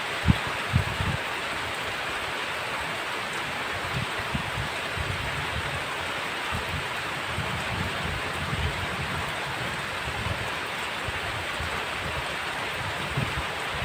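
Heavy rain falling in a steady, dense hiss, with scattered low dull thuds, two sharper ones within the first second.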